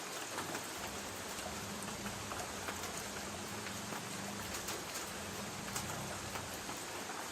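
Light rain falling on a tin roof: a steady patter with individual drops ticking on the metal.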